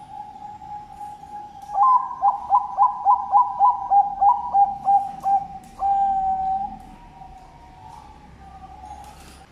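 Zebra dove (Bangkok-type perkutut) singing: a run of about a dozen quick, clipped coos, roughly three a second, ending in one longer held note. Other doves coo steadily behind it.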